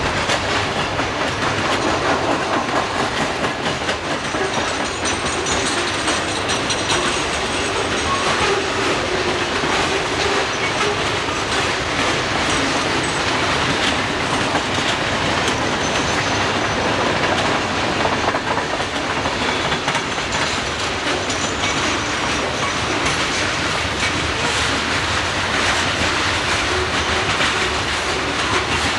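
Freight train cars rolling past steadily, wheels clicking over rail joints and switch points, with faint high wheel squeal coming and going.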